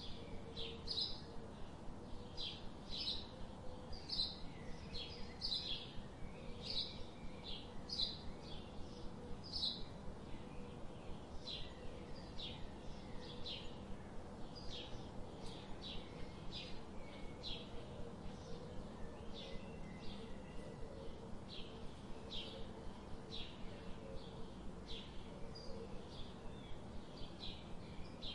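Short high bird chirps repeating one or two times a second over a steady background hiss.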